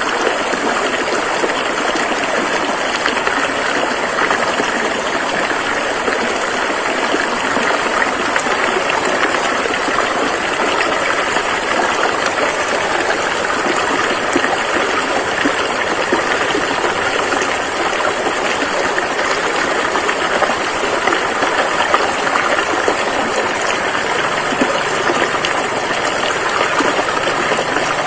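River water rushing and gushing steadily over rocks, an even, unbroken flow.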